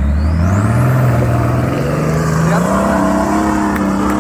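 Nissan Patrol GU's 2.8-litre engine revving hard under load as the four-wheel drive climbs a rocky step, its pitch rising over the first two seconds and then holding high. A thin high whine climbs with it at the start.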